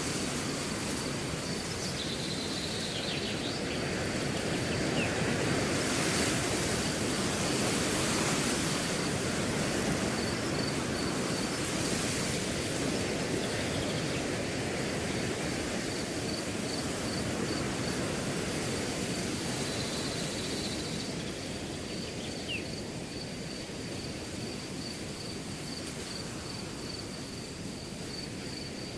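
Wind blowing through a grass field, rising in a gust several seconds in and easing off toward the end, with crickets chirping steadily in a high, even pulse.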